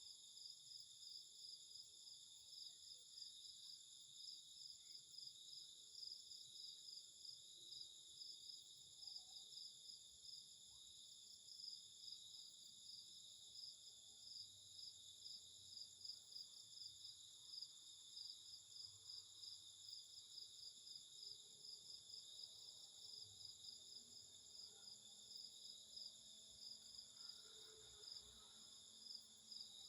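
Faint insect chorus: several steady high-pitched trills, one of them pulsing in a regular rhythm.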